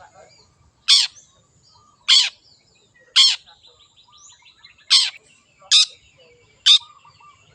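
Long-tailed shrike giving six loud, harsh calls about a second apart, with soft twittering between them.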